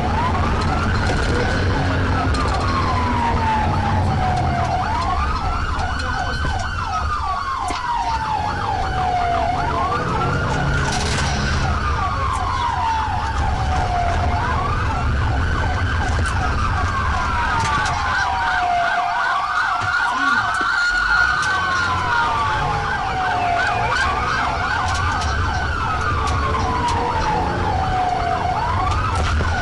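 Police car siren wailing, its pitch rising and falling slowly about every four to five seconds, over a faster warbling siren tone, with the patrol car's engine running underneath.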